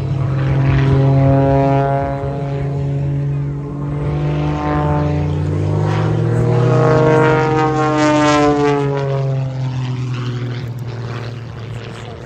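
Extra 330 aerobatic plane's piston engine and propeller running at high power through a display manoeuvre. It swells as the plane comes close, drops a little in pitch as it passes, and fades near the end.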